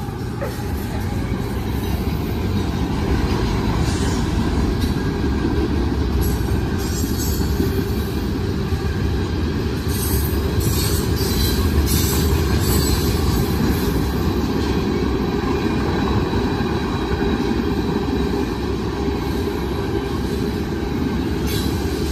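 Loaded freight train of tank cars rolling past on steel wheels: a steady low rumble with rail clatter. High-pitched wheel squeal comes in patches from about halfway through.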